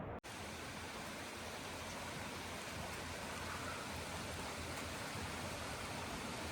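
Steady rushing of a mountain stream, an even hiss of water, after a split-second dropout near the start.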